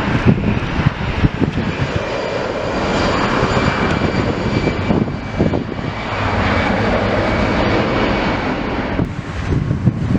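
Airliner engines running: a loud, steady rush with a faint high whine over it, dipping briefly about nine seconds in.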